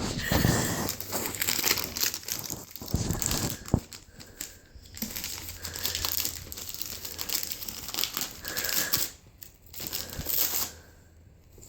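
Gift wrapping paper crinkling, crumpling and tearing in irregular bursts as a present is unwrapped, dying away near the end.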